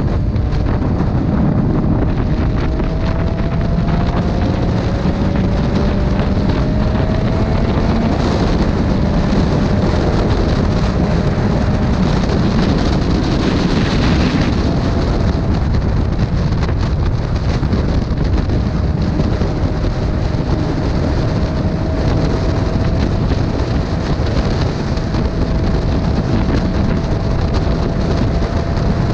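Motorcycle riding along at road speed: heavy wind buffeting the microphone over the engine's steady drone, whose note slowly rises in pitch at times.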